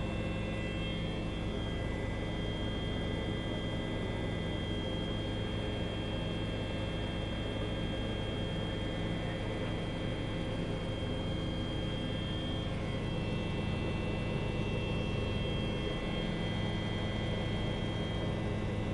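Helicopter in flight, its engine and rotor making a steady drone with several constant tones that holds level throughout.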